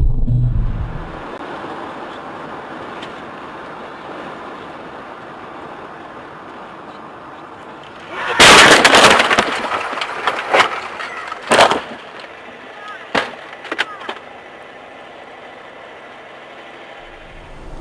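Steady road noise inside a car, then a loud crash about eight seconds in, followed by several sharp bangs over the next few seconds, typical of a vehicle collision.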